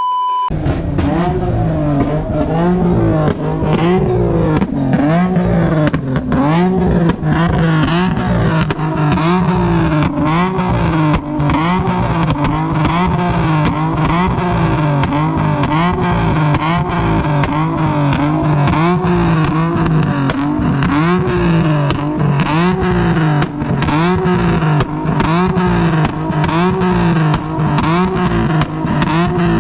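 Car engine revving in steady repeated surges, its pitch rising and falling about once every second and a half, with sharp crackles throughout.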